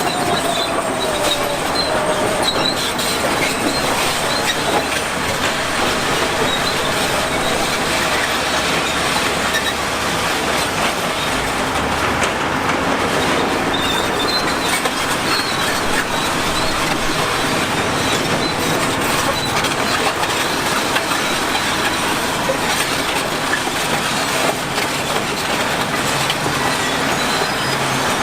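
Steel crawler tracks of a heavy tracked machine squealing and clanking steadily over a running diesel engine.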